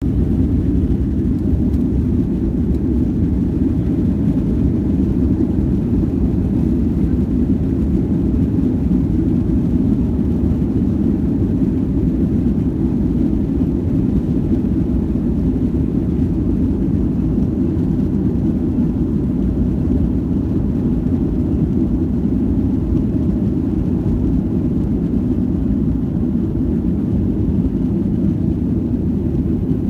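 Jet airliner taking off: a steady, loud low rumble of engines and airflow that holds an even level throughout.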